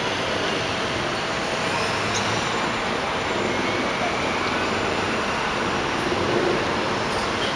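Steady city street traffic noise, with vehicle engines running and no distinct events standing out.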